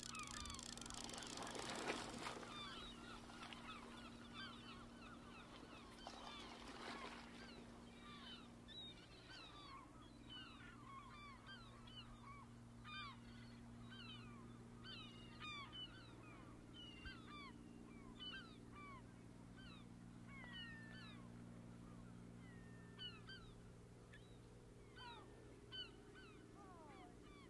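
Many short bird calls, chirping in quick irregular succession, over a faint low steady hum. A brief rush of noise near the start is the loudest moment.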